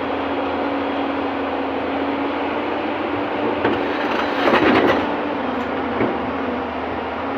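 JCB JS215LC excavator running with a steady engine hum. About halfway through comes a short, louder rough clatter, with a single knock just before it and another about a second after it.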